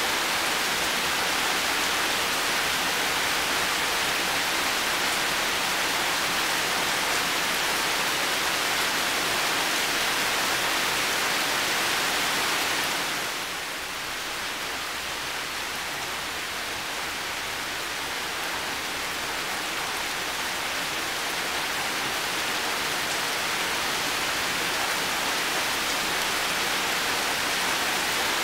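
Heavy rain falling steadily, a dense even hiss. About halfway through it eases a little and softens, then slowly builds back up.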